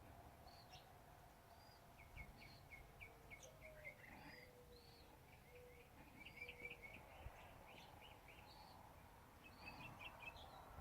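Faint birdsong: many short high chirps and little runs of quick chirps, busiest around the middle and again near the end.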